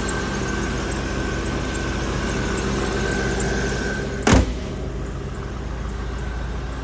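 A 1990 Cadillac Sedan Deville's 4.5-litre fuel-injected V8 idling steadily, with a thin high whine over it. About four seconds in comes one loud slam, the hood being shut, and after it the engine sounds duller.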